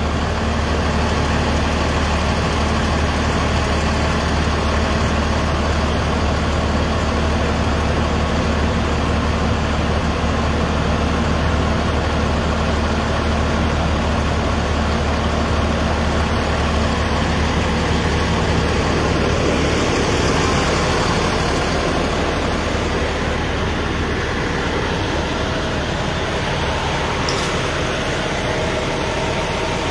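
Heavy vehicle's engine idling steadily with a low hum; its note changes about twenty seconds in.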